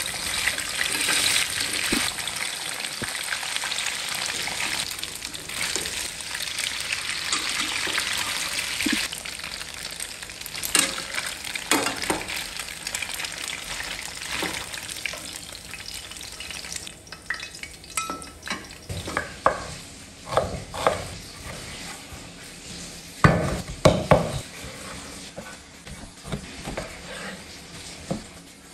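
Tofu cubes frying in hot oil in a nonstick pan: a steady sizzle that gradually dies down. In the second half come scattered clinks and knocks of utensils.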